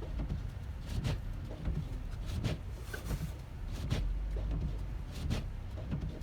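Car driving slowly through snow, heard from inside the cabin: a steady low road-and-engine rumble with a short swish repeating about every second and a half.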